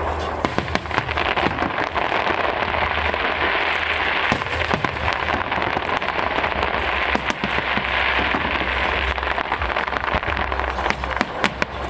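Aerial fireworks going off in a dense, steady crackling barrage, with many sharp pops scattered through it.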